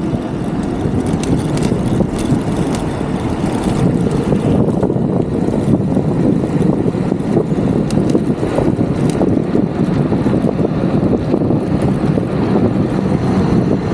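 Steady rushing wind and road noise from a moving e-bike ride, with a few faint clicks.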